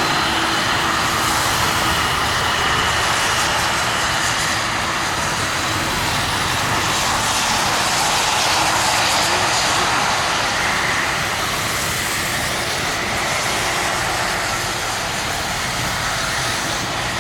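Jet airliner engines running, a steady loud noise that eases slightly over the stretch.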